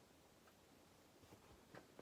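Near silence: room tone with a few faint clicks about a second in and again near the end.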